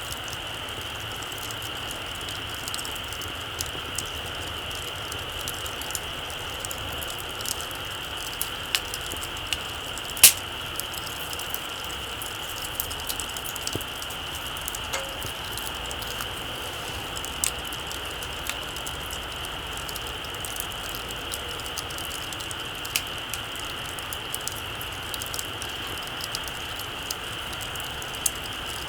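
Very small wood campfire crackling, with scattered sharp pops over a steady hiss and one loud pop about ten seconds in.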